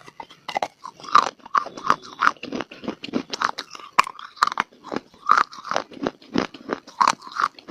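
Close-miked crunching and chewing of dry clay in the mouth, with a fast, irregular run of sharp crunches as pieces are bitten and ground between the teeth.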